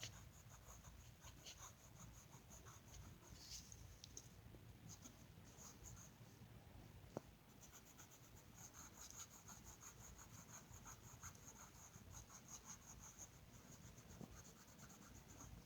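Faint scratching of a colouring tool on paper, fast back-and-forth shading strokes, with one sharp tick about seven seconds in.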